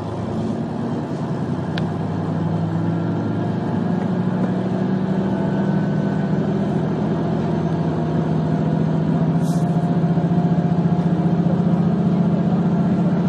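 Diesel engine of a KiHa 150 railcar pulling away from a station under power, a steady hum that grows gradually louder as the train gathers speed. There is a brief faint click about two seconds in and a short hiss a few seconds before the end.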